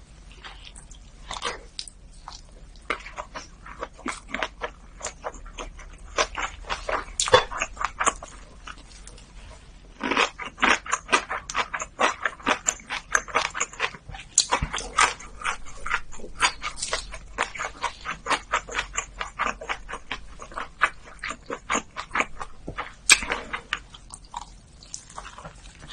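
Close-miked chewing: wet, irregular mouth clicks and smacks of someone eating, busiest around the middle.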